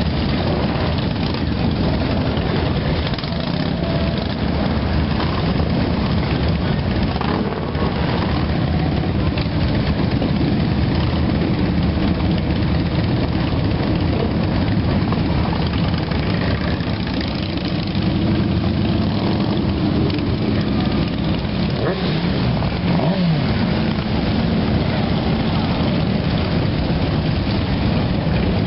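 Motorcycle engines running together, with one revving up a little past the middle.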